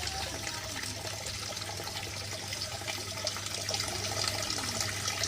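Water from a small garden-pond waterfall splashing and trickling steadily into the pond.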